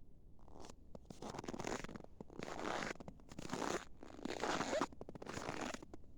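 Footsteps creaking and crunching in snow at a steady walking pace, about six steps, each a short grinding squeak. This is the squeak that packed snow gives underfoot in hard frost.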